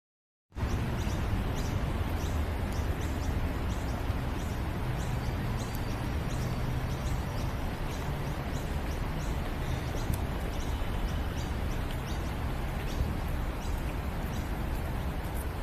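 Outdoor ambience: small birds chirping in many short, quick calls over a steady low rumble and hiss. It starts abruptly about half a second in.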